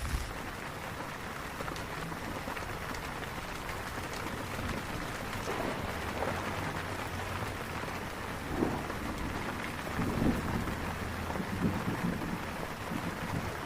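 Heavy rain falling steadily, with a low rumble underneath and a few louder splashes of drops here and there.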